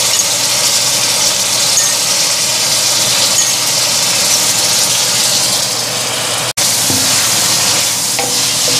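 Beef chunks frying in a wok of hot spice paste: a steady sizzle with a low hum underneath, cut off briefly about six and a half seconds in.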